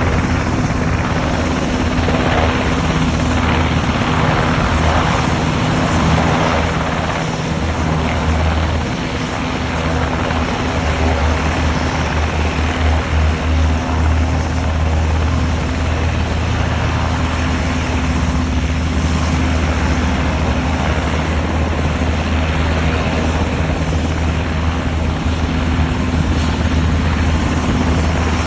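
Sikorsky UH-60 Black Hawk helicopter rotors and engines running with a steady, continuous rotor thump and turbine noise.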